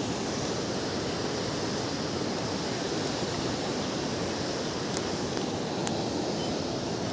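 Steady rushing of a river's flowing water, an even, unbroken noise with a few faint ticks over it.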